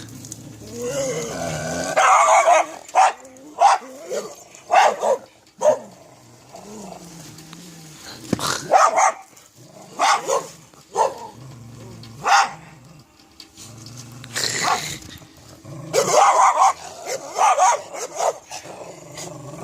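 A dog barking over and over in short, irregular calls, with busy clusters about two seconds in and again near the end and lower, softer sounds between the barks.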